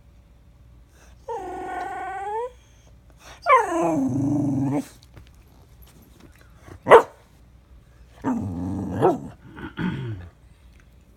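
Dog begging for food, making drawn-out whining vocalizations, one falling steeply in pitch, and giving a single short sharp bark about seven seconds in.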